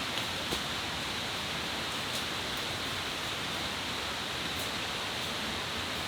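Steady rushing noise of water, such as a stream or rain in the forest, with a few faint ticks in it.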